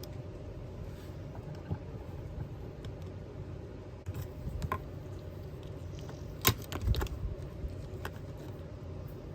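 Small hard objects being handled, giving a few light clicks and taps, the sharpest about two-thirds of the way in, over a steady low hum.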